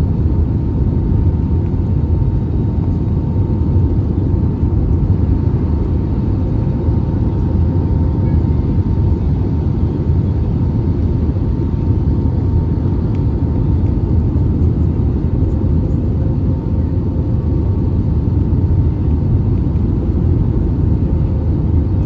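Steady in-flight cabin noise of an Airbus A320neo with CFM LEAP-1A engines: a loud, even low rumble of airflow and engine drone, with a faint steady hum above it.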